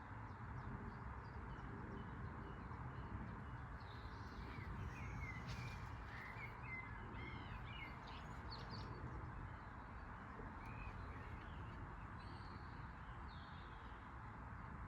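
Birds calling in short chirps, a cluster about a third of the way in and a few more past two-thirds, over a steady low background noise.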